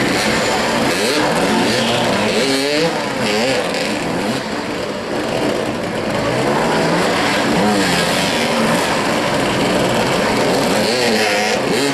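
Several motoball motorcycles revving and accelerating together, their engine notes rising and falling over and over as the riders chase the ball.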